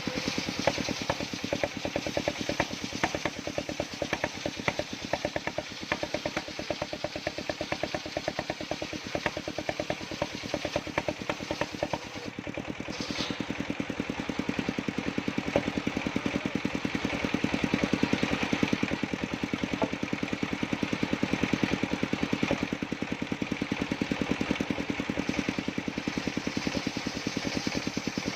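Engine-driven circular sawmill running with the engine's fast, even beat. The sound eases briefly about twelve seconds in.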